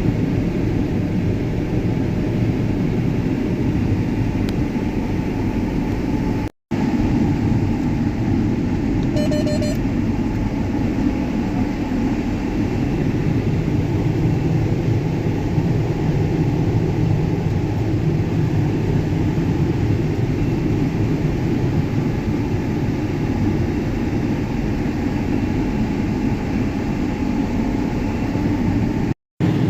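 John Deere S680 combine running steadily under harvesting load, a constant loud machine rumble. The sound drops out completely twice for a split second, about six seconds in and near the end.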